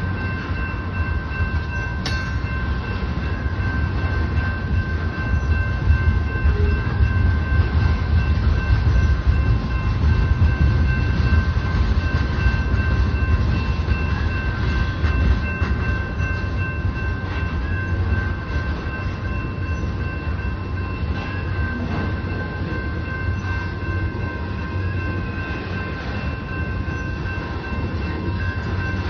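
Union Pacific oil train's tank cars rolling past: a steady low rumble of wheels on rails, loudest a few seconds in, with a faint steady whine held above it.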